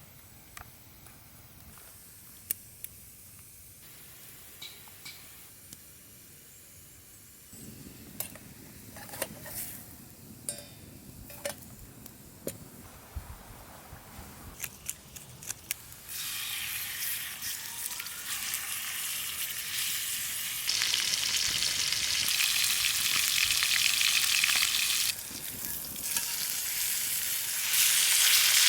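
Scattered clicks and taps, then about halfway through food starts sizzling in a hot pan, a loud steady hiss that gets louder in steps.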